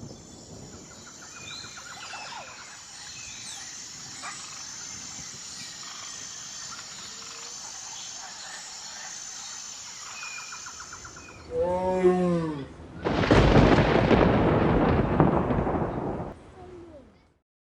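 Outdoor bird ambience: scattered chirps and short trills over a steady, pulsing high insect-like drone. About 12 seconds in comes a loud run of about six quick, harsh pitched calls, followed by several seconds of loud rushing noise that stops abruptly.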